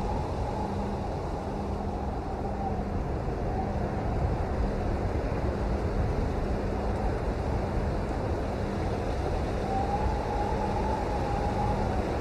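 Steady rain: an even, unbroken hiss with most of its weight low. A faint wavering tone drifts over it, clearest near the end.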